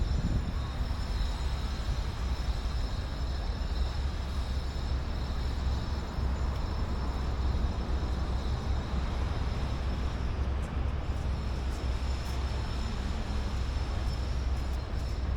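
Steady outdoor city-street ambience: an even, deep rumble with a hiss above it, and a few faint clicks near the end.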